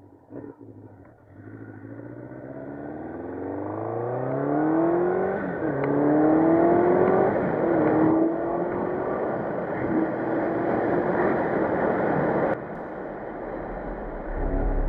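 Honda CB700SC Nighthawk S inline-four engine, its top end freshly rebuilt and still being broken in, accelerating hard: the note climbs steadily in pitch, dips at a gear change about five seconds in and again near eight seconds, then holds before dropping off sharply about two seconds before the end.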